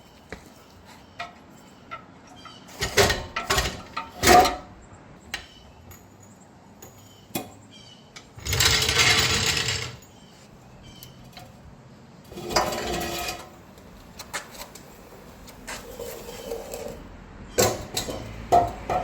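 Mechanic's tool work taking off a car's stock exhaust: scattered metal knocks and clanks, with two short bursts of a power tool, the louder one about halfway through and a shorter one a few seconds later.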